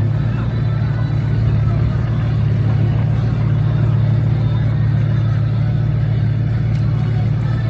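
Car engine running steadily nearby, a constant low rumble with no clear revving.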